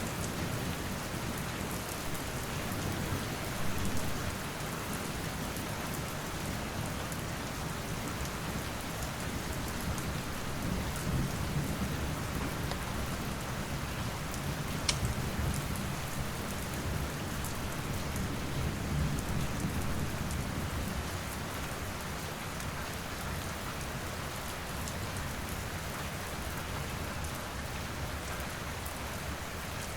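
Steady rain falling, with a low rumble of distant thunder that fades out about two thirds of the way through. A few sharp pops from a crackling wood fire, the clearest about halfway.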